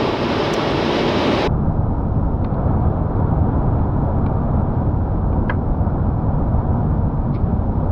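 Steady road and wind noise of a car driving at highway speed through a ground blizzard, a dense low rumble under a hiss. About a second and a half in, the hiss drops away abruptly, leaving a duller rumble with a few faint ticks.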